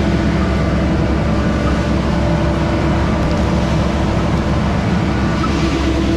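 Skid-steer diesel engine running steadily under load while it drives a Mud Demon concrete pump, a continuous drone with a steady hydraulic hum.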